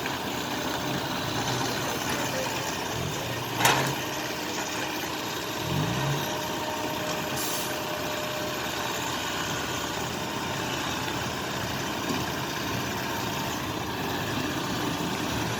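Vehicle engines running steadily under an even noisy hiss, with a sharp knock nearly four seconds in.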